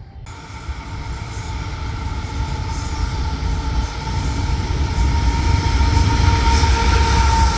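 Freight train rolling past, growing steadily louder, with a deep rumble and a steady high-pitched whine over it.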